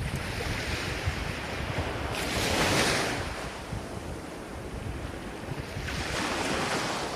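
Ocean waves breaking and washing on a shore, the surf swelling to a wash about two and a half seconds in and again near the end, over a constant low rumble.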